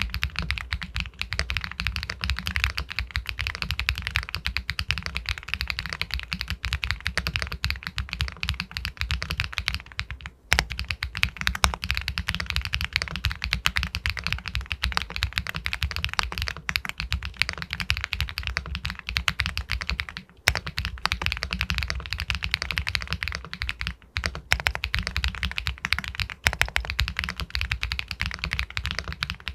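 Fast continuous typing on an Epomaker Galaxy 80 Pro full-aluminium mechanical keyboard with White Jade linear switches, a dense stream of key clacks with brief pauses about ten and twenty seconds in.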